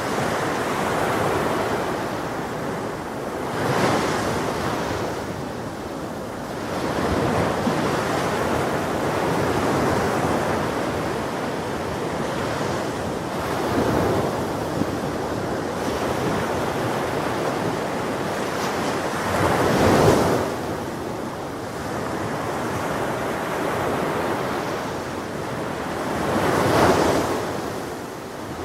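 Ocean waves breaking on a shore, a continuous wash of surf with a wave cresting louder every several seconds, the strongest about twenty seconds in.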